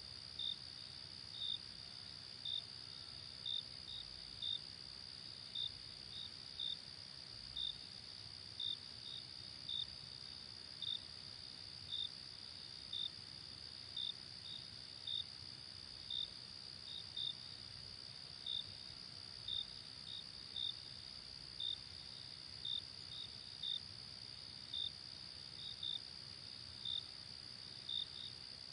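Night insects, likely crickets: a steady high trill with separate short chirps about once a second, sometimes in pairs, over a faint low hiss.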